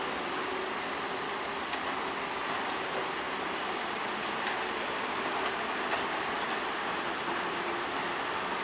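Heavy earthmoving machinery working steadily: a diesel bulldozer running at a constant, even level, with a few light clicks.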